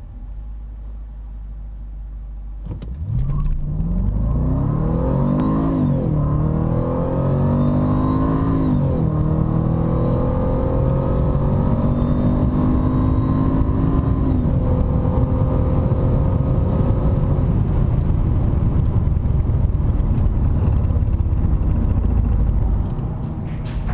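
Jaguar XJ SuperSport's supercharged 5.0-litre V8 at idle, then launched hard about three seconds in and accelerating flat out through the gears, the engine note climbing and dropping back at each of four upshifts. Near the end it eases off.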